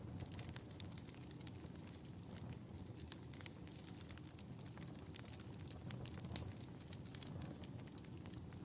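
Fireplace fire crackling: irregular sharp pops and snaps over a low, steady rumble of the burning fire.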